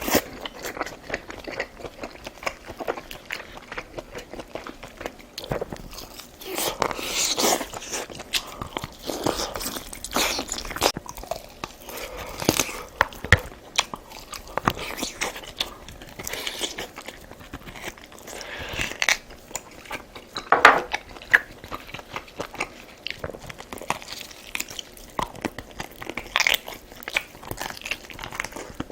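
Close-up sounds of a person eating: chewing and crunchy biting of food, with many short, irregular clicks and bursts.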